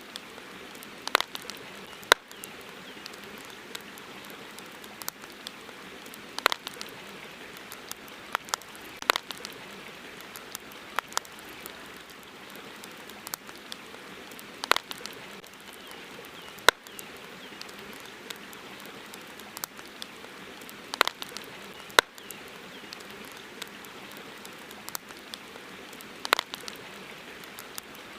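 Wood campfire crackling, with irregular sharp pops, some coming in quick clusters, over a steady hiss of river water.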